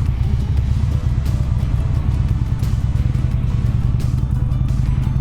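Motorcycle engine running steadily while riding on the road, with background music over it.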